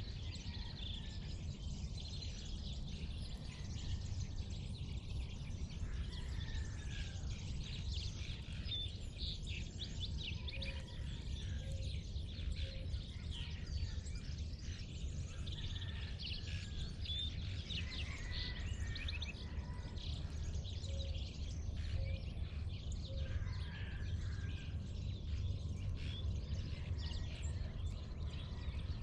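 Dawn chorus of many birds chirping and calling at once over a steady low rumble, with a short series of three low notes heard twice.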